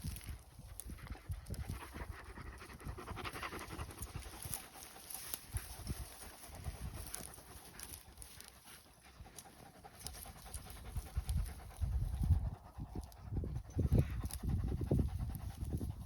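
A large shepherd dog panting, with irregular low thumps that grow heavier in the last few seconds.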